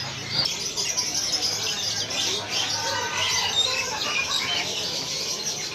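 Dense chorus of many caged songbirds chirping and twittering over one another, with no pauses.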